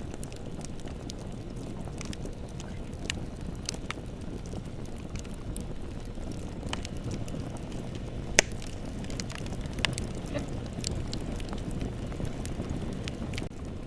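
Bonfire burning with a steady low rumble and scattered sharp crackles and pops of burning wood, the loudest pop a little past halfway.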